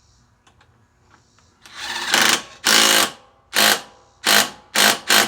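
A handheld power tool run in short bursts, driving a fastener home: one longer run about two seconds in, then several quick pulses.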